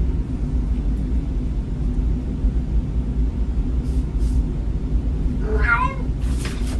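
A cat meows once, briefly, near the end, over a steady low rumble, with a few faint clicks just after.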